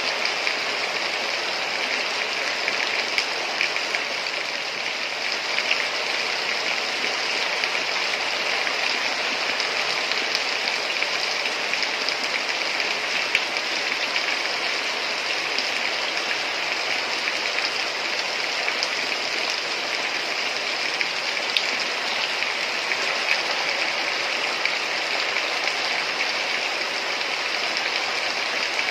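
Heavy rain falling steadily, an even hiss of dense drops with a few sharper individual drop ticks.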